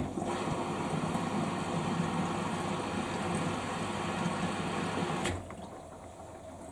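Samsung washing machine drum turning on its quick-wash cycle: the motor starts suddenly, runs steadily for about five seconds, then stops abruptly.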